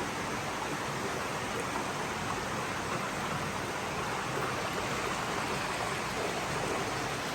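Steady rush of running water in indoor koi ponds, as from the ponds' filtration flow, with no other sound standing out.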